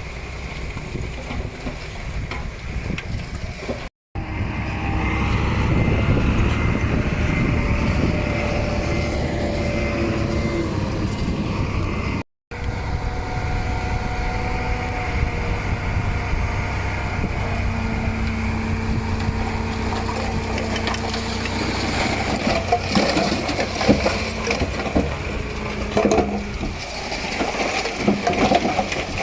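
Heavy diesel earthmoving machinery running steadily under load, with a steady whine above the engine sound. The sound drops out for an instant twice, and near the end it is broken by irregular clattering and crunching.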